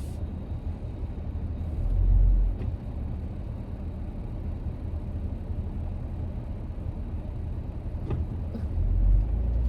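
Steady low rumble of a car heard from inside the cabin, swelling louder about two seconds in and again near the end.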